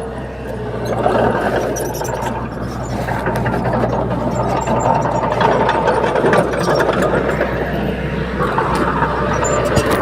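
Bulldozer diesel engine running under load, with many short sharp clicks and clanks over the engine noise.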